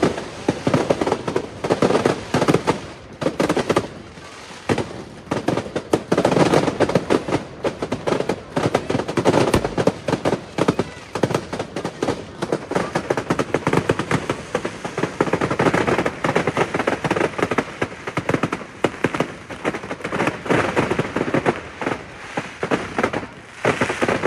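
Fireworks display: shells bursting overhead in a continuous barrage of rapid bangs and crackles, many sharp reports every second.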